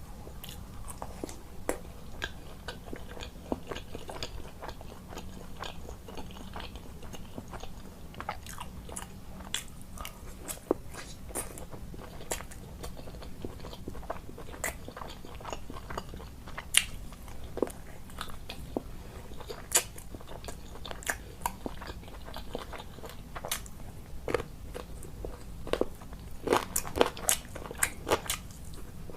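A person chewing and biting food close to the microphone, with irregular crisp crunching clicks that come thicker near the end.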